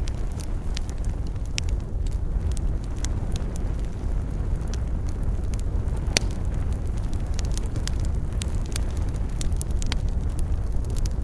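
Wood campfire crackling: irregular sharp pops and snaps over a steady low rumble, with one louder pop about six seconds in.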